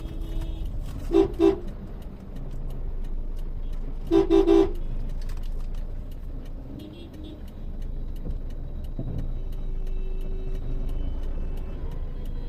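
Car horn tooted twice in quick short blasts about a second in, then three rapid toots about four seconds in, over steady low road and engine rumble.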